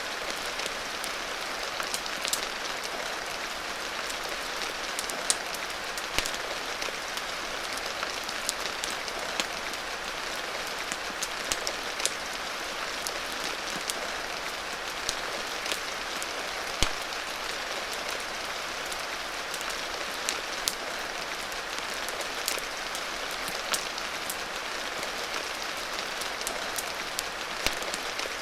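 Steady rain falling, an even hiss, mixed with a wood fire's irregular sharp crackles and pops, one louder pop a little past the middle.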